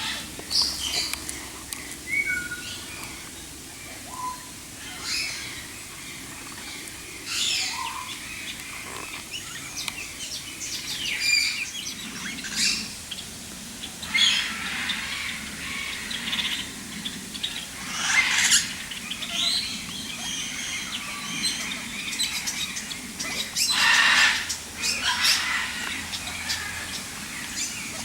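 Many birds calling: scattered chirps and short whistles, with several louder, harsher calls standing out every few seconds.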